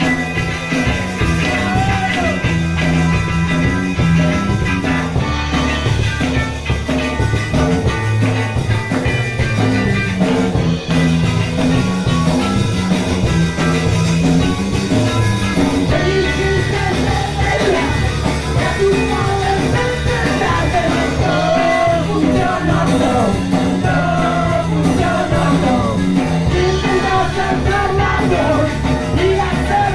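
Punk rock band playing live: electric guitar, bass and drums, with singing over them, the voice coming in more strongly in the second half.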